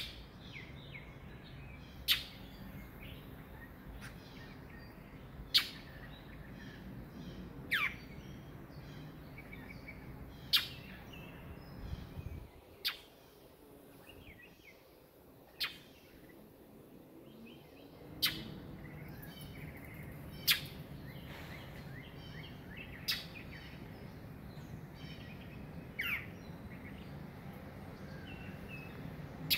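A small bird giving a loud, sharp call over and over, about every two to three seconds, with fainter chirping between the calls. The bird is scolding a cat on the ground below it.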